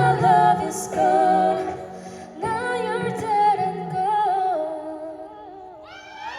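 Female vocalist singing a wordless, drawn-out closing melody live over a low backing track; the singing fades, and a crowd starts cheering right at the end.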